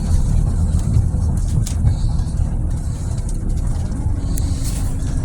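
A 2009 Scania city bus with a Lahti Scala body under way: a steady low engine and road rumble, with a few light rattles or clicks.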